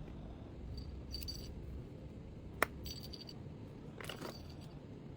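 Small metal items jingling and clinking as they are handled, in two short bursts, with one sharp click about two and a half seconds in and a brief rustle near the end.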